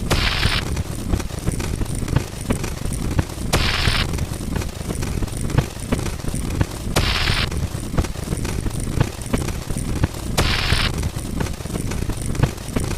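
A dense, continuous rattle of rapid clicks over a low rumble, with a short burst of hiss about every three and a half seconds: repeating sound effects from a fast-running counter.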